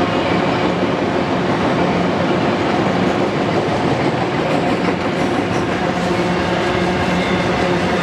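Union Pacific freight train's auto-rack and double-stack container cars rolling past: a steady rumble of steel wheels on rail with a constant hum.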